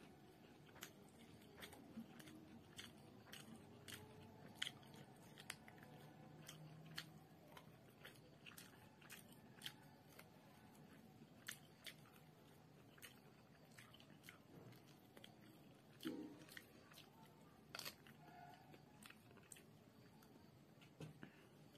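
Close-up chewing of food eaten by hand, with frequent wet mouth clicks and lip smacks, one or two a second, and a few louder smacks along the way.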